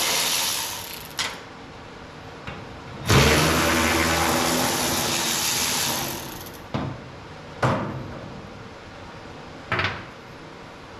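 Power tool run in bursts while the truck's hood is being unbolted: a run that stops about half a second in, another of about three seconds starting about three seconds in, and several short blips of the trigger between and after.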